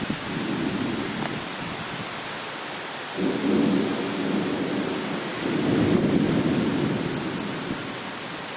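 Thunder rumbling in rolling peals over steady rain. A faint roll comes at the start, a stronger one about three seconds in, and another about five and a half seconds in that slowly dies away.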